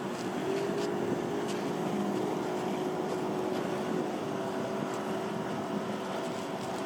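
Motorboat engine running steadily as a boat passes through the inlet, its hum stepping up slightly in pitch about half a second in, over a wash of water and wind noise.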